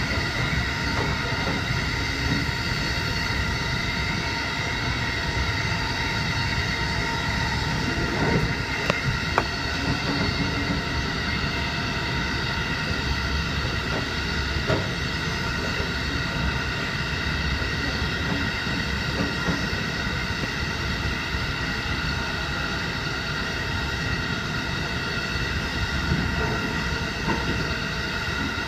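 JR Hokkaido 711 series electric train running along the line, heard from inside the train: a steady rumble with a constant whine of several tones. A few sharp knocks from the wheels crossing rail joints come between about eight and fifteen seconds in.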